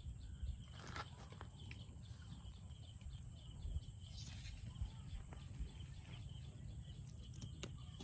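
Faint rural outdoor ambience: a steady low rumble of wind on the microphone, with small high chirps repeating throughout and a few light clicks.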